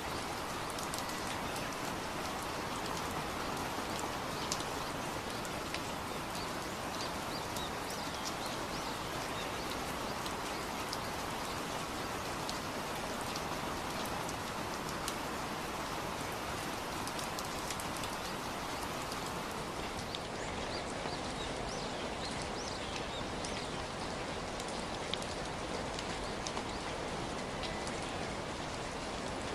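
Steady rain falling, a continuous hiss with many small drops ticking through it.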